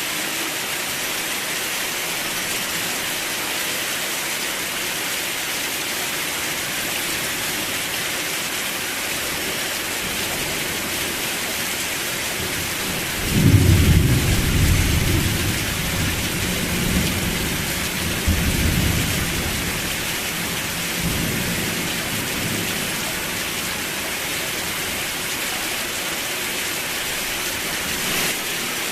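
Steady heavy rain, with a roll of thunder that breaks in suddenly about halfway through and rumbles on in waves for several seconds before dying away.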